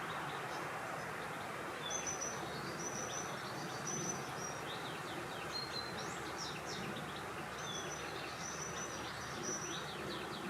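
Several small birds calling over a steady rush of wind: short, high, thin whistles, each held on one note, and quick falling notes that cluster about six seconds in and again near the end.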